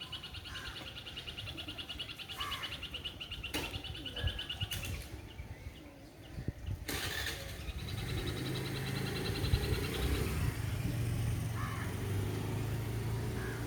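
Birds calling over a fast, high trill. From about eight seconds in, a motor vehicle's engine runs with a steady low hum.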